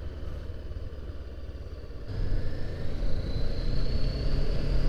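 Honda CBR500R's parallel-twin engine running at low revs, getting louder about two seconds in as it pulls harder, with a faint slowly rising whine.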